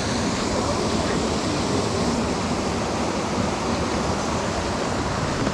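Steady rush of a mountain stream's water running over rocks, an even, unbroken noise.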